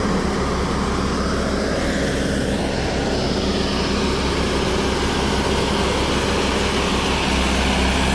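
Heavy diesel engine running steadily under load, with a higher whine that glides in pitch through the middle.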